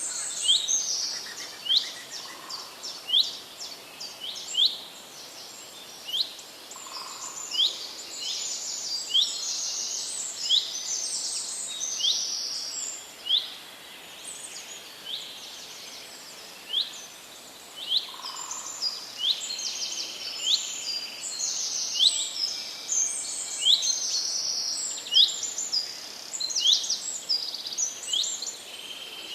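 Several wild birds chirping and calling over one another, with short sharp calls repeating about once a second through a steady stream of high chatter.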